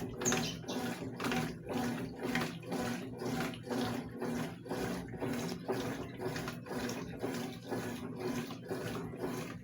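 Consul CWS washing machine agitating a load of wet towels: water sloshes in a steady rhythm of about three surges a second over the low hum of the motor.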